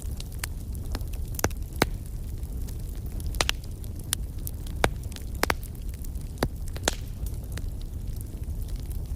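Campfire burning, with sharp, irregular crackles and pops over a steady low rumble.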